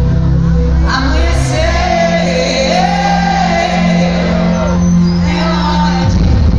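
Live concert music: a voice sings gliding lines over a held bass note, with shouts from the audience. A heavier bass beat comes back in near the end.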